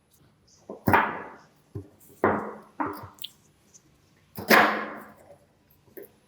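Four sharp knocks or blows, each with a short ringing tail that fades away. The loudest come about a second in and about four and a half seconds in, with smaller clicks between them.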